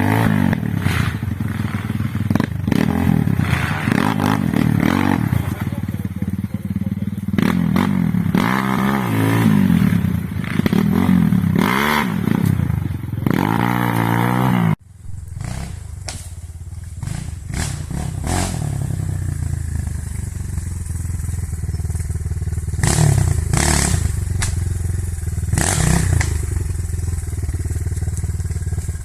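Two-stroke enduro motorcycle engine revving up and down again and again while riding off-road. About halfway through the sound breaks off suddenly, and the engine then runs lower and steadier with a few knocks and clatter.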